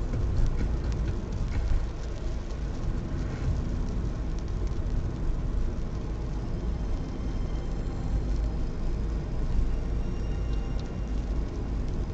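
Car driving on the road, heard from inside the cabin: a steady low rumble of tyre and engine noise, with a few faint clicks in the first few seconds.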